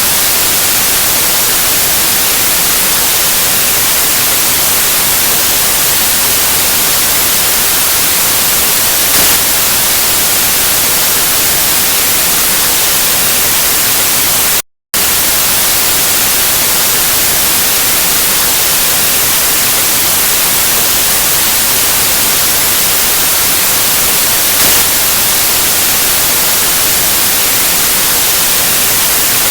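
Steady white noise hiss, even across the whole range and brightest in the treble. It cuts out to silence for a split second about halfway through, then resumes unchanged.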